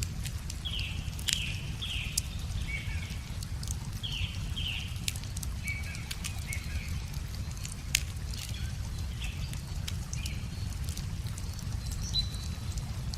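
Wood fire crackling with scattered sharp pops, over a steady low rumble, while a songbird repeats short falling chirps through most of the stretch.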